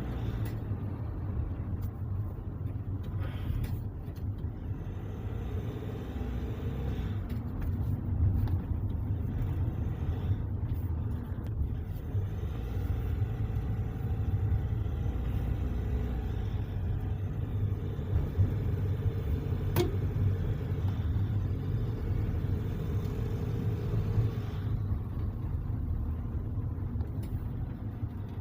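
Vehicle driving on the road with a steady low rumble of engine and road noise, on a test drive after its differential bearings, side gears and pinion gear were replaced to cure a hum at speed.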